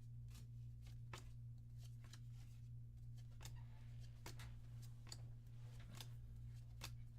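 Trading cards and booster pack wrappers being handled, giving faint, scattered clicks and rustles about once a second over a steady low electrical hum.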